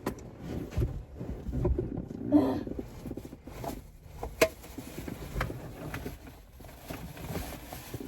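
Scattered knocks, clicks and rustles of items being picked up and moved around inside a car, over a low rumble.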